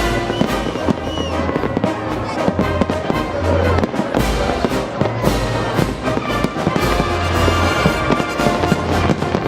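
Fireworks salute with rapid bursts of many bangs, one after another, while music plays at the same time.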